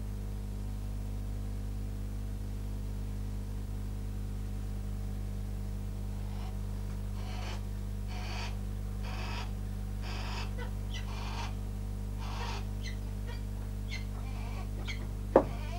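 A bird's harsh, rasping calls, repeated about once a second, begin about six seconds in over a steady electrical hum. A single sharp click comes near the end.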